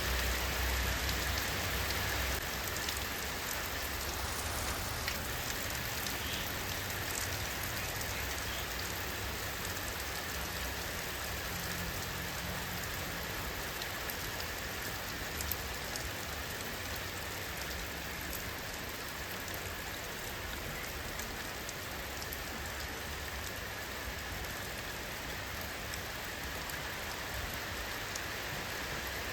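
Steady rain falling, an even hiss with scattered sharper drop ticks; a deeper low rumble eases off about two seconds in.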